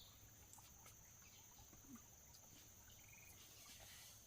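Near silence with faint outdoor ambience: a steady high-pitched insect drone, with a brief chirping trill about three seconds in.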